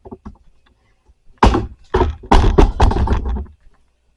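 Household objects being handled and knocked: one thump about a second and a half in, then a run of knocks and clatter lasting about a second and a half.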